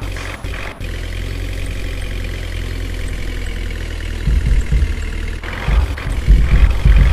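Diesel engine of a 12-wheel truck running steadily, then getting louder and rougher about four seconds in.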